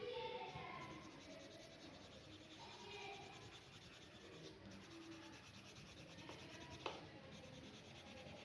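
Faint scratching of a pen drawing on paper, with faint voices in the background and a single sharp click about seven seconds in.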